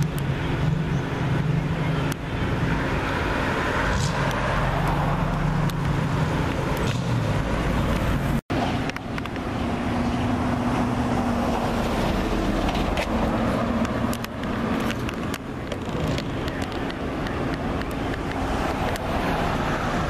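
Car engines running with a steady low hum and road noise, cut off for an instant about eight seconds in.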